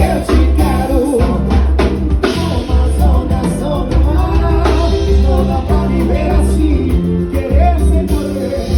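Carnival band music: a singer over a drum kit and a heavy, steady bass beat.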